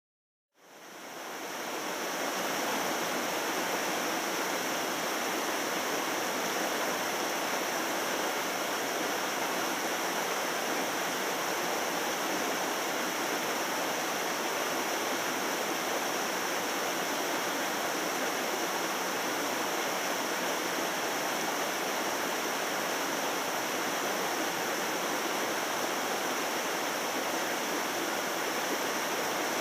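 Mountain stream water rushing steadily, fading in from silence within the first second or two.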